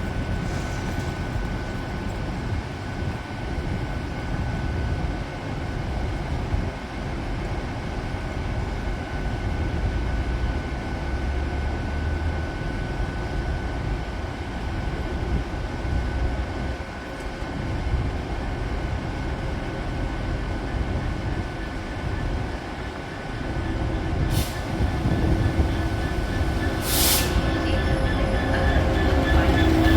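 Diesel train running through the station with a steady rumble and a thin steady whine, growing louder over the last few seconds, with two brief high wheel squeals.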